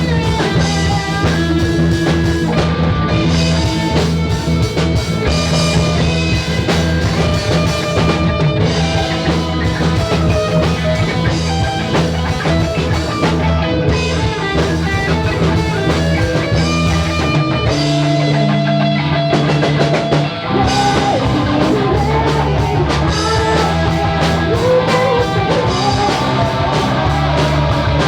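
Rock music with electric guitar and drum kit over a steady bass line; the deepest bass drops away for a couple of seconds past the middle.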